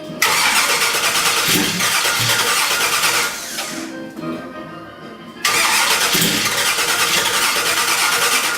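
Car engine cranked on the starter twice, about three seconds each time, each attempt starting and cutting off suddenly without the engine catching and running on.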